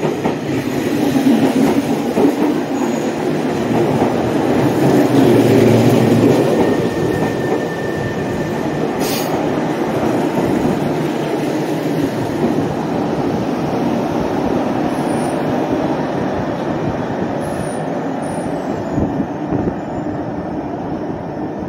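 Meitetsu electric train running alongside the platform, a continuous rumble of wheels on rail that is loudest in the first several seconds and then settles to a steadier level.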